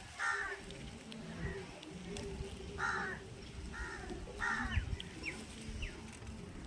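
Crow cawing: four caws, one near the start and three in quick succession a little after halfway, with a few faint high chirps from another bird in between.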